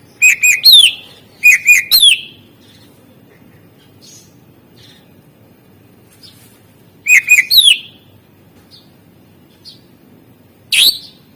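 Greater green leafbird (cucak ijo) singing: three loud phrases, each two short chirps followed by a quick falling whistle. The first two phrases come about a second apart and the third some five seconds later, then a single sharp call near the end.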